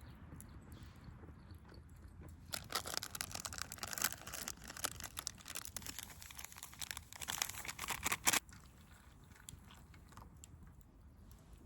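A dense run of crunching, crackling clicks lasting about six seconds, starting a couple of seconds in and stopping sharply near the two-thirds mark.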